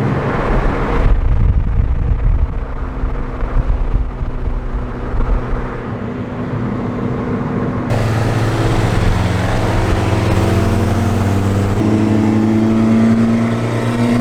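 Car engine running while driving, heard in three cut-together stretches. Near the end its pitch climbs as the car accelerates.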